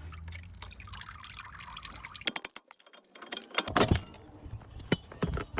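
Metal tools and car parts clinking and knocking as they are handled during a repair, in scattered sharp clicks with a louder cluster about four seconds in.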